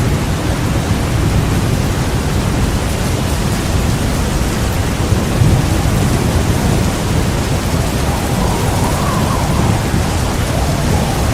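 Heavy rain on a thunderstorm night, with a continuous low rumble of thunder that swells briefly about halfway through. Near the end a faint wavering whistle of wind rises over the rain.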